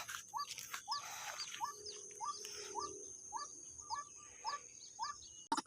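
White-breasted waterhen ('wak-wak' bird) repeating a short call about twice a second, with a steady high insect-like whine underneath. It cuts off abruptly near the end.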